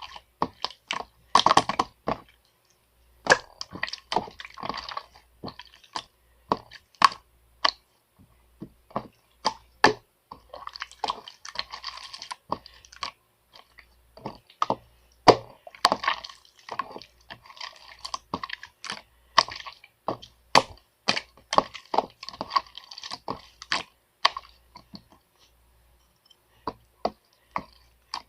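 Irregular sharp clicks and taps mixed with short stretches of rustling noise, thinning out near the end.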